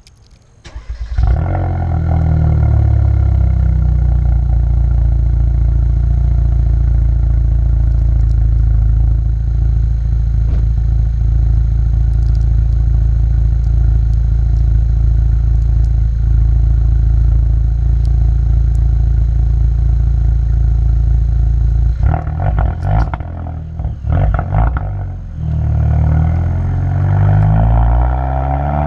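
Exhaust of a 2020 Hyundai N Line car with the muffler deleted: the engine starts about a second in and idles steadily. Near the end come a few quick throttle blips, then a rising rev.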